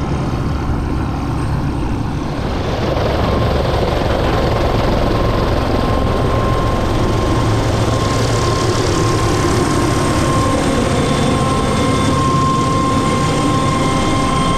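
MD500C helicopter's turbine engine running at reduced power while parked, with its rotor turning: a steady, loud noise with a low drone under it. About three seconds in it grows louder and a steady high whine comes in.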